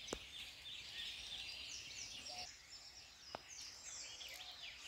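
Several wild birds singing together, many quick down-slurred high notes overlapping, with two sharp clicks, one just after the start and one about two-thirds of the way through.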